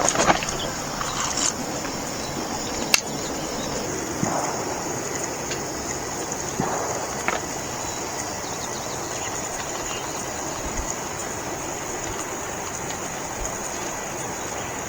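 Steady outdoor background noise with a constant high-pitched hiss, broken by one sharp click about three seconds in and a few faint soft knocks.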